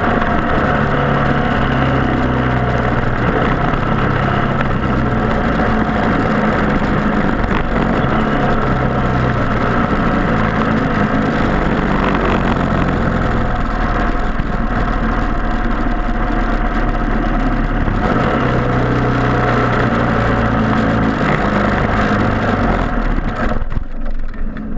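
Several single-cylinder Briggs & Stratton Animal four-stroke kart engines running at racing speed, a steady, dense drone of many engines at once. The sound drops away sharply about a second before the end.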